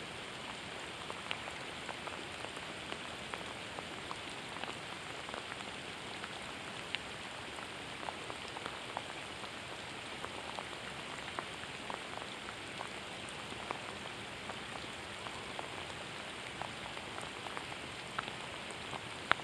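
Heavy rain falling steadily on lake water, with many small, sharp drop ticks scattered through the steady hiss.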